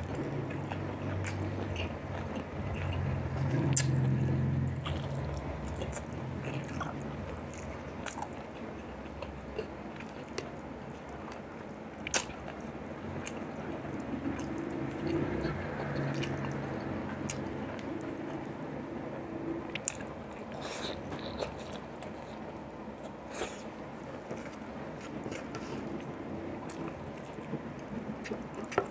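Close-up chewing and biting of boiled beef shank meat, wet mouth sounds going on steadily, with a few sharp clicks.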